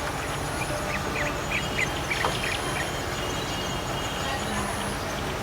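Budgerigar chirping: a quick run of short, high chirps about a second in, with a few more near the end, over a steady background hiss.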